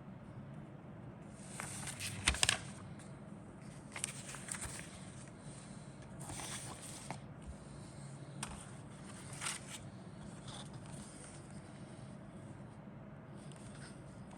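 Model kit packaging and plastic parts being handled: several short bursts of rustling and scraping with sharp clicks, the loudest about two seconds in, over a low steady hum.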